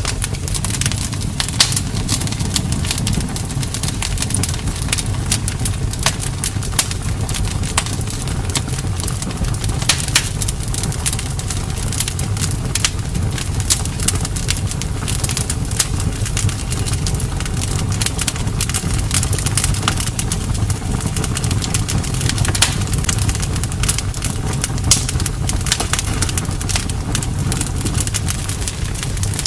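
Campfire burning: a steady low rumble of the flames with frequent sharp crackles and pops of burning wood.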